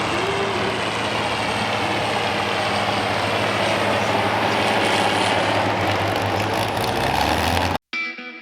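A competition pulling vehicle's engine running hard, loud and steady, that cuts off abruptly near the end. Distorted electric guitar music starts just after.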